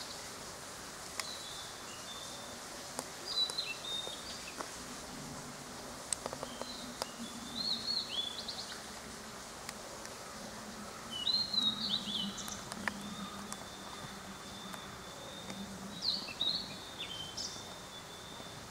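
Small songbirds singing, in short phrases of quick chirps and warbles that come back four or five times over a steady outdoor hiss.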